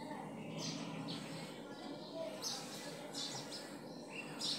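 Faint, short high-pitched chirps repeating every second or so, like small birds calling, over a steady low background murmur.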